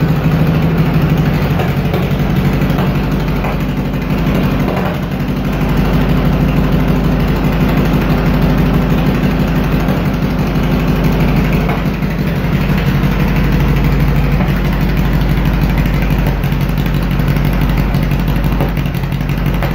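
1915cc air-cooled VW flat-four engine in a rail buggy, with a single Weber 44 carburettor, Eagle 110 cam and Empi exhaust, running at a steady idle on its first start-up, with a slight dip about four seconds in.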